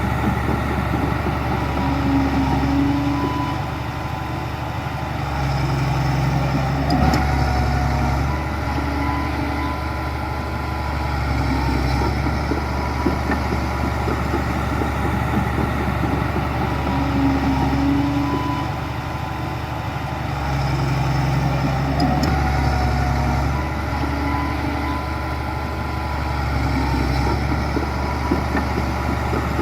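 Heavy diesel engine of earthmoving machinery working continuously, its note swelling and easing every few seconds as the load changes, with a brief clank about seven seconds in and again about twenty-two seconds in.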